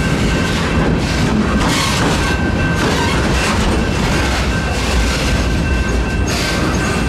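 Freight train cars rolling past close by: a steady loud rumble with the clatter of steel wheels over the rails coming again and again, and a faint thin steady squeal above it. The cars are a Norfolk Southern train of loaded military flatcars.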